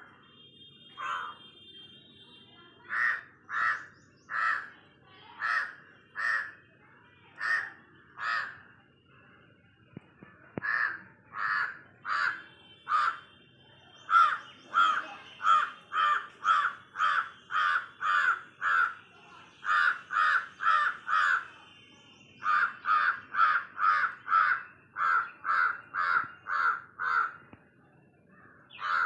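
A bird calling in a long run of short, repeated calls, slower at first and then about two a second, with brief breaks about nine seconds in and near the end.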